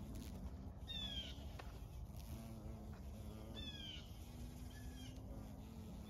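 A bird calling in short calls that fall in pitch: two clear calls, about a second and nearly four seconds in, then fainter ones near the end, over a low steady rumble.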